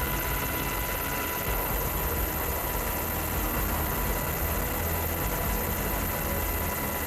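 Aircraft engine noise: a steady rumble and hiss with constant whining tones running through it.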